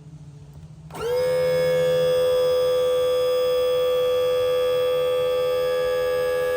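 Mercury outboard's power trim motor running: a steady electric whine that winds up quickly about a second in, holds one pitch, and stops abruptly near the end.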